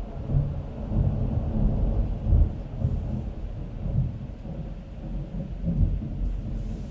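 Thunder rumbling: a long, low roll that swells and fades several times and is loudest about two and a half seconds in.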